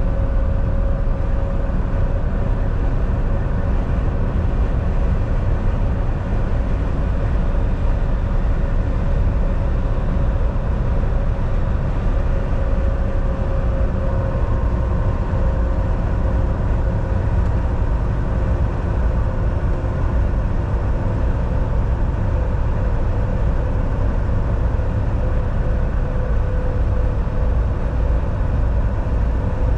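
Volvo VNL 760 semi truck cruising at a steady speed, heard from the driver's seat: a constant low engine drone and road noise, with a faint steady whine above it.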